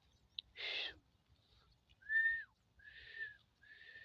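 A short noisy rush just under a second in, then three short, breathy whistled notes, each holding one pitch and dipping at the end, spaced under a second apart.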